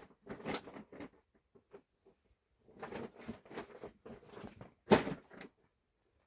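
Irregular bursts of rustling and handling noise, with one sharp knock about five seconds in.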